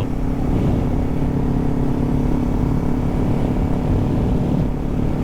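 Kawasaki Z400's parallel-twin engine running at a steady cruise while riding, with a low rumble of wind and road noise underneath.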